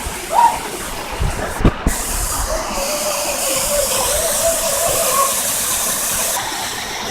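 Rushing, hissing water with several low thumps about a second in. The hiss grows louder for a few seconds in the middle.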